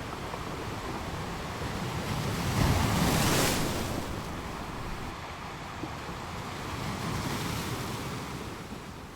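Ocean waves breaking on shore: a steady wash of surf with one wave crashing loudly about three seconds in and a smaller one near the end.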